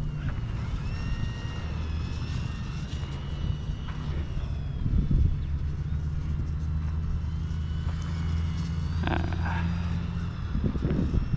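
Steady low rumble of a motor vehicle's engine running, with the thin, wavering high whine of a micro electric RC airplane's motor above it. A few brief bumps.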